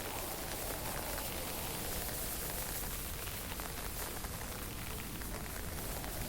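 Fine drizzle and wind making a steady, even hiss, with a low rumble underneath.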